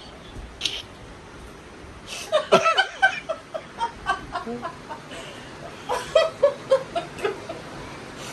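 A person laughing in two bouts of short, repeated bursts: one about two seconds in and one about six seconds in.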